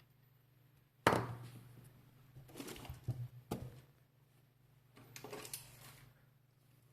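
Hard objects being handled on a repair bench: a sharp knock about a second in, then two short runs of light clicks and taps.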